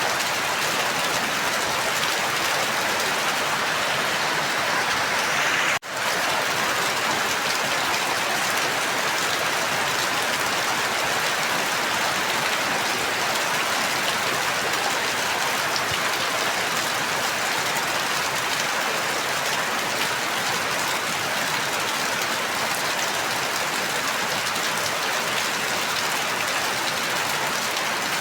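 Steady rain falling, an even dense hiss, which drops out for a split second about six seconds in.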